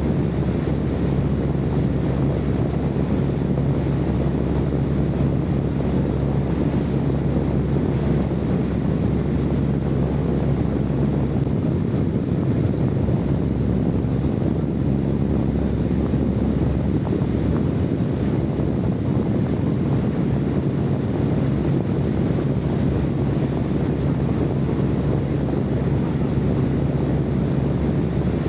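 Steady low rushing noise with a constant low hum underneath, recorded live as sleep white noise.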